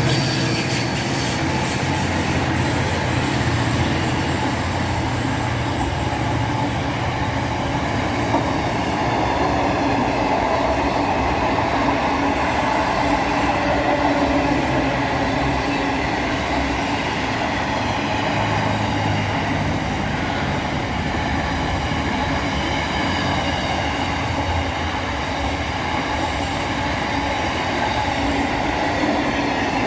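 Steady mechanical rumble with faint, steady high-pitched tones running through it.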